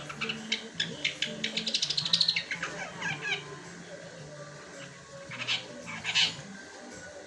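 Long-tailed shrike singing a chattering song of mimicked Eurasian tree sparrow fighting calls: sharp chirps, a fast run of chatter about two seconds in, then a few sparser, harsher calls.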